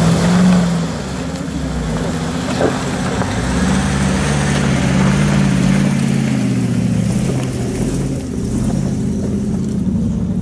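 Off-road 4x4 engines running under load in mud, a steady engine drone that swells and eases. A Hummer H2's engine is loudest about half a second in, then the engines of a column of 4x4s crawling along a muddy track carry on.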